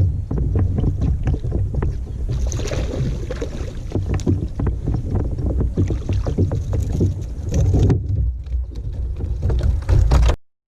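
Fishing kayak underway on the water, with wind rumbling on the microphone and many short knocks. The sound cuts off suddenly near the end.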